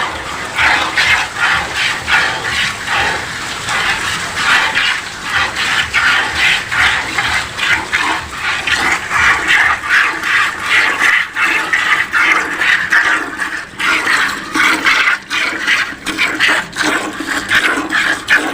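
Cow being milked by hand: jets of milk squirting into a pail in a quick, regular rhythm, one stream after another.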